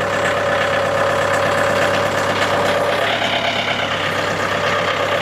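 A 40-horsepower tractor's engine running steadily, working to lift and move a heavy fallen oak log.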